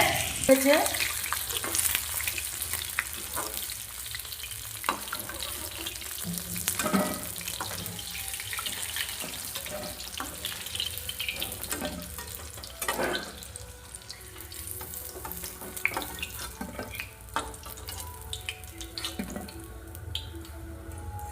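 Chicken pakoras frying in hot oil in a kadai: a steady sizzle, with occasional light clicks of a utensil. The sizzle thins in the second half.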